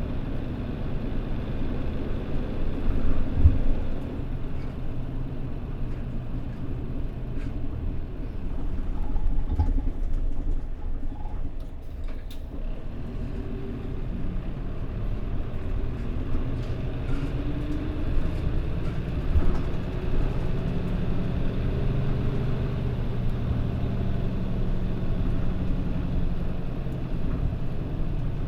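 Mitsubishi Fuso Aero Star (PJ-MP35JM) diesel city bus driving, heard from inside the cabin: a steady low engine and road rumble. The engine note climbs and shifts partway through as the bus pulls away or accelerates, then settles, with a few short knocks from the body.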